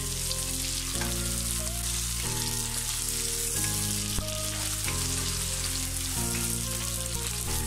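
Sliced onions, green chillies and garlic paste sizzling in hot oil in a pan while being stirred with a spatula. Background music with slow, held notes that change about once a second plays over it.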